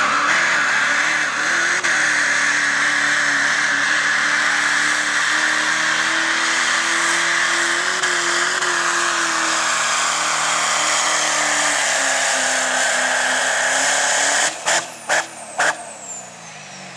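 Diesel pickup truck in the 8,000 lb pulling class running at full throttle under load, a steady, loud engine sound with a high hissing whine. Near the end the throttle cuts off in three or four short bursts. The engine then winds down with a high whine falling in pitch.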